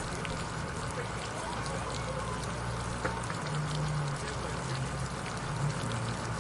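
City water fountain splashing steadily, water falling and pattering without a break, with a low steady hum of city background beneath it.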